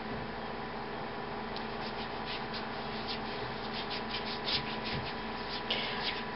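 Hands rubbing body lotion into the skin: soft, irregular rubbing sounds that start about a second and a half in and come in quick clusters.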